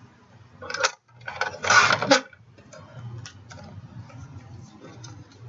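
Cardstock being cut on a paper trimmer: a short swipe, then a louder swipe about a second long, followed by light clicks and taps.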